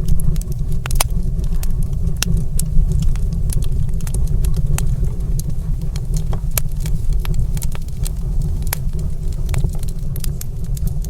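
Wood fire crackling in a stone fireplace: frequent, irregular sharp pops and snaps over a steady low rumble.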